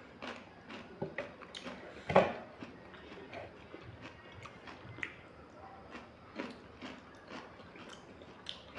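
Close-up chewing and eating sounds as chicken is eaten by hand: irregular wet mouth clicks and smacks, with one louder knock about two seconds in.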